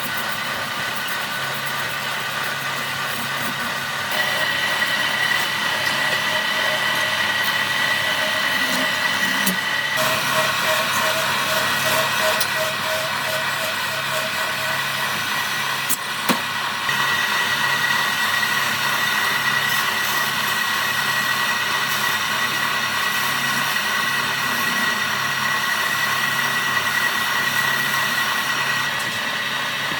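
A power tool running steadily with a high whine, getting louder about four seconds in, and one sharp click about sixteen seconds in.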